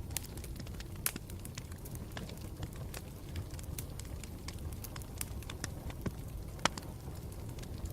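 Campfire burning, with a steady low rumble and irregular sharp crackles and pops from the burning wood; one pop a little after a second in and one at about six and a half seconds stand out.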